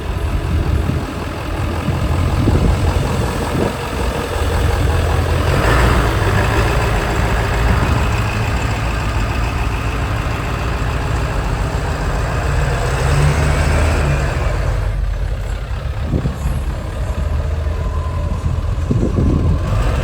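A truck engine running steadily with a low rumble.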